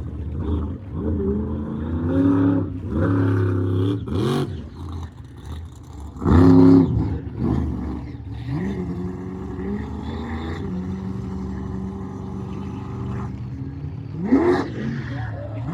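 Monster truck engine revving hard, its pitch repeatedly climbing and falling, with the loudest surge about six seconds in and a steadier held note after it. A couple of sharp bangs stand out, one around four seconds in and one near the end.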